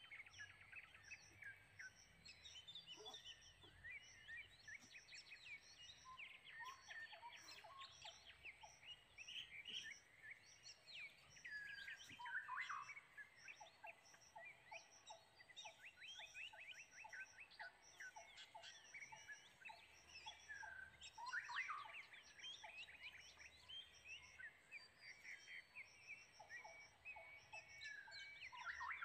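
Faint forest ambience: many birds calling with chirps and trills, over a steady high pulsing chirp that repeats throughout. From about the middle on, runs of evenly spaced lower notes come at about three a second.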